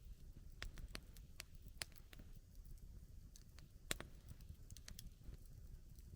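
Wood campfire crackling quietly: irregular sharp pops and snaps over a low steady rumble, the loudest pop about four seconds in.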